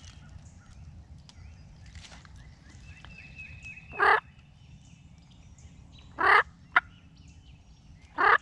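Wild turkey tom gobbling three times, about two seconds apart, with a short sharp call between the second and third. A hot gobbler is answering and coming in. A faint quick series of high notes comes just before the first gobble.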